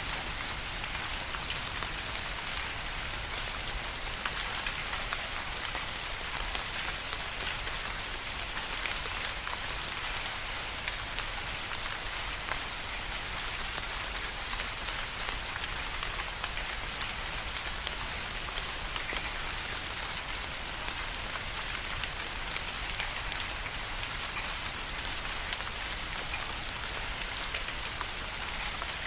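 Steady rain falling, an even hiss with many small, close drop ticks and no thunder.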